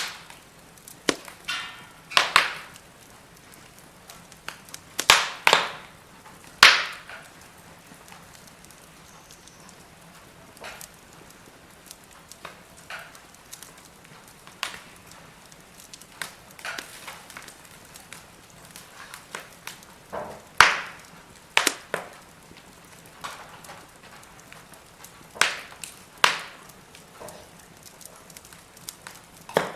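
Firewood burning in a fire pit, crackling with irregular sharp pops over a faint steady hiss; a few pops are much louder than the rest.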